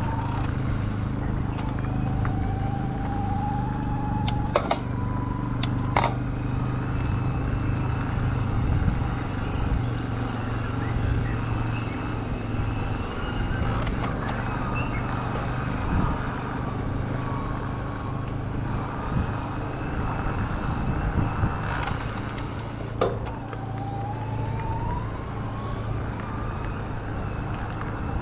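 E-bike ride noise: a steady low hum with wind and rolling noise, and a whine that rises in pitch several times as the bike speeds up. A few sharp clicks or knocks come about four and six seconds in and again near the end.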